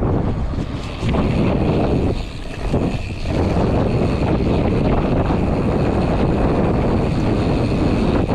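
Wind buffeting the microphone of a camera riding along on a mountain bike, a loud rushing noise that eases briefly about two to three seconds in.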